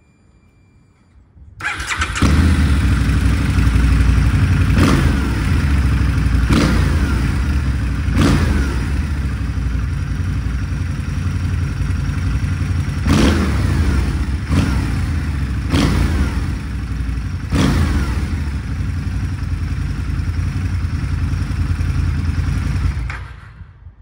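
Harley-Davidson V-Rod's liquid-cooled V-twin starting up and idling, with about seven quick throttle blips that rev up and fall back, then switched off near the end.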